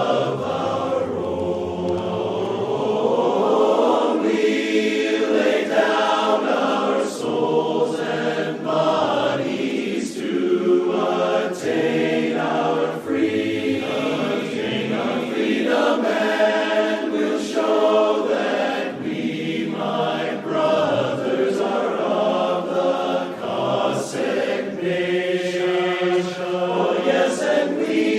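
A choir singing a slow choral piece, several voices holding sustained notes that change about every second or two.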